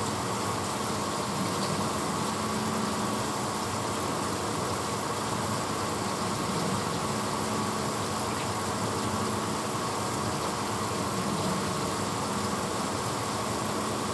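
1986 Hotpoint Potwasher dishwasher running mid-cycle: a steady, even whooshing with a low hum that does not change.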